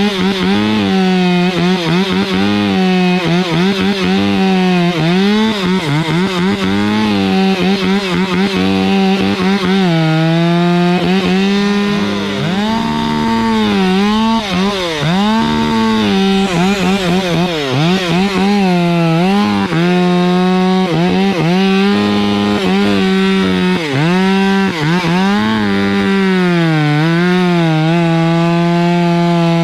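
Stihl two-stroke chainsaw cutting into a Canary Island palm trunk. Its engine note keeps dipping as the chain bogs under load and climbs back again, then holds steady near the end.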